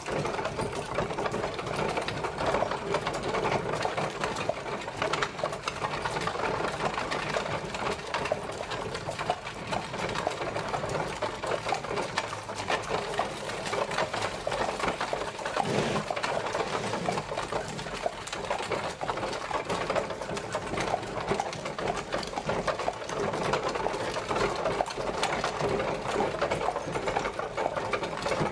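Horse-drawn carriage on the move: a dense, steady rattle and clatter of its wheels and bodywork.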